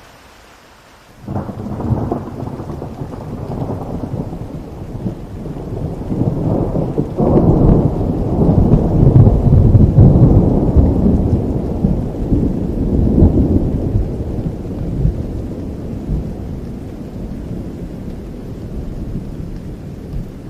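Steady rain, with a thunderclap breaking in about a second in. Its low rumble rolls on, swells again about a third of the way through, then fades slowly.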